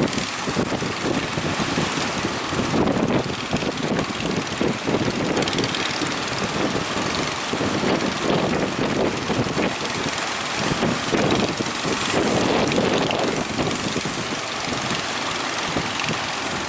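Strong wind buffeting the microphone, a loud gusty rushing that surges unevenly.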